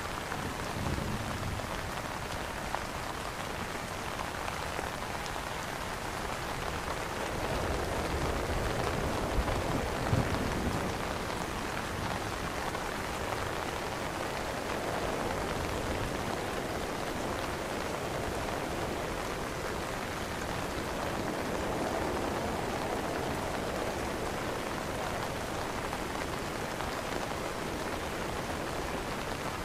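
Rain falling steadily on an umbrella canopy, a continuous hiss of drops that grows a little louder for a few seconds about a third of the way in, with a couple of heavier drop hits.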